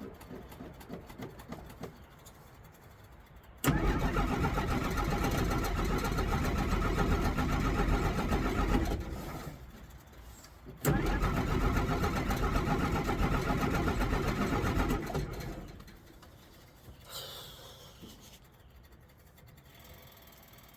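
1963 Jeep Gladiator engine being started twice: each time it cranks and runs loudly for about four to five seconds, then dies away as it stalls, with a short lull between the attempts. A brief squeak follows near the end.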